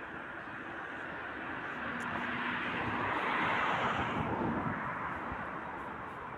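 A vehicle passing by: its noise swells to a peak about halfway through, then fades away.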